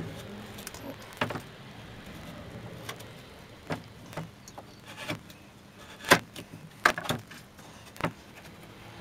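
Scattered clicks and knocks of small workshop parts being handled and set down on a bench, as a plate is stuck down with double-sided tape. The loudest knock comes about six seconds in.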